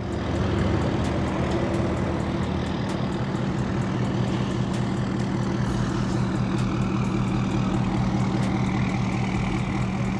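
Truck engine idling steadily, with an even ticking over the low hum.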